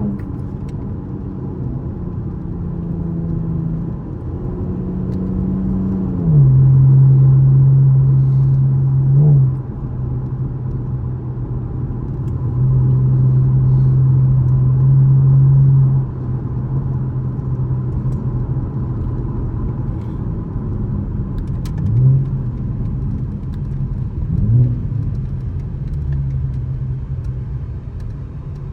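2013 Camaro LS's 3.6-litre V6 running under way, shifted through the gears by hand. The engine note drops in pitch about six seconds in as it changes gear, pulls louder for a few seconds at a time, and flares up briefly three times later on, as on downshifts.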